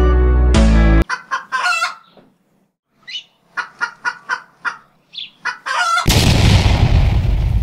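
Background music cuts off abruptly about a second in. A run of short clucking, bird-like calls follows, then a loud noisy rush near the end that fades away over about two seconds.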